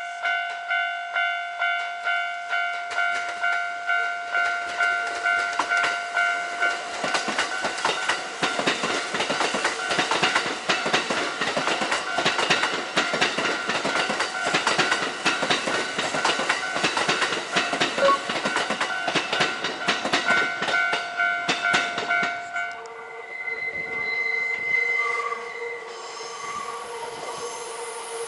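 Railway level-crossing alarm ringing about twice a second. A Kintetsu train then passes over the crossing, its wheels clattering over the rail joints for about fifteen seconds, and the alarm stops about 23 seconds in.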